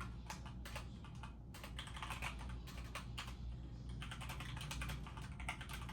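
Typing on a computer keyboard: quick, irregular key clicks, over a low steady hum.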